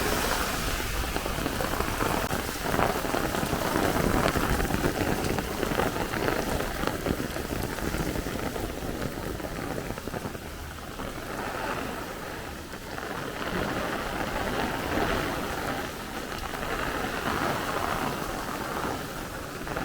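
Torrential downpour hammering on pavement and streets, a dense, steady rush of rain, with gusty wind buffeting the microphone. It eases slightly about halfway through, then picks up again.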